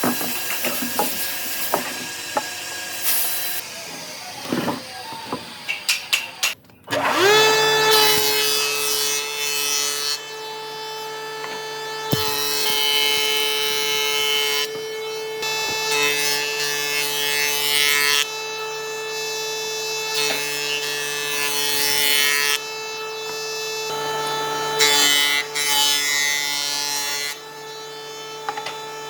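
Knocks and scrapes of wood being handled. About seven seconds in, an electric power tool's motor spins up and then runs at a steady whine, biting into wood again and again in stretches of a few seconds each.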